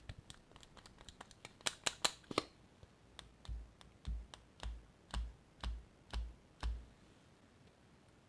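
Handling of makeup and slime. A quick run of sharp clicks and taps comes first, then about seven evenly spaced soft thuds, each with a click, about two a second.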